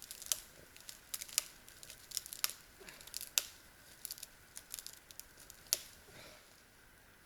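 Small dry twigs and branches being snapped by hand for fire kindling: an irregular string of sharp cracks with some crinkling between them.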